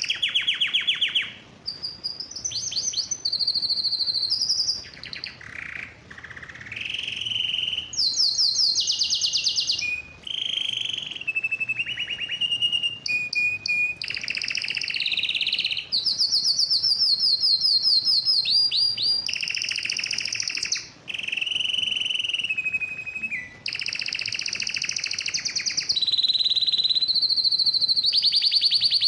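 A male canary singing a long, loud song in breeding excitement. The song is a chain of rapid trills, each a fast string of one repeated note held for a second or two before the bird switches to another, some high and some lower, with brief pauses between phrases.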